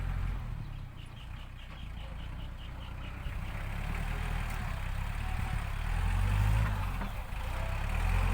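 ISEKI NT554 tractor's diesel engine running steadily, its low rumble swelling about six seconds in and again near the end. A faint quick ticking sounds over it from about one to three seconds in.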